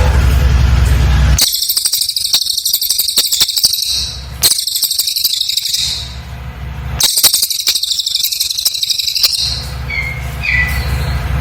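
Cililin songbird giving two rapid, very high-pitched rattling trills, each about two and a half seconds long, with a regular pause between them. A steady low hum underlies the gaps.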